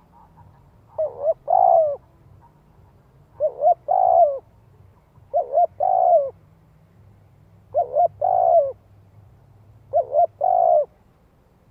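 Spotted dove giving its cooing call: five phrases about every two and a half seconds, each two short coos followed by a longer one.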